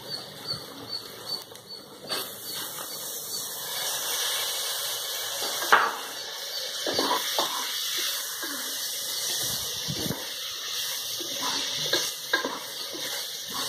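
Onion-and-spice masala sizzling in hot oil in an aluminium pressure cooker as chopped tomatoes go in; the sizzle swells about two seconds in and holds. A wooden spatula knocks and scrapes against the pot now and then as the mix is stirred.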